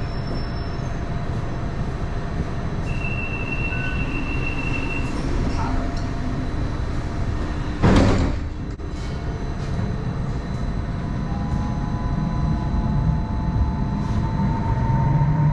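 Hong Kong Light Rail Phase I light rail train running, heard from on board: a steady rumble of wheels and running gear. A sudden loud burst comes about eight seconds in, and a steady whine that rises slightly sets in over the last few seconds.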